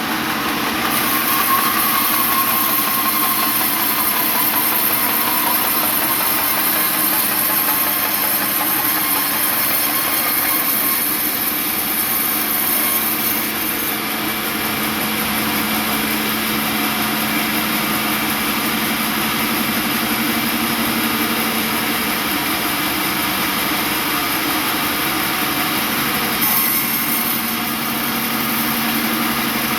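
Sawmill machinery running steadily: an engine-driven saw with a constant drone and hiss.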